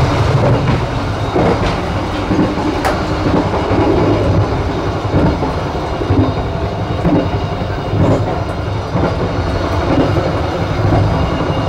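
Running noise of a passenger train coach on the move, heard from inside its toilet cubicle: a steady rumble from the wheels and running gear, with sharp clicks and knocks over the rails at uneven intervals.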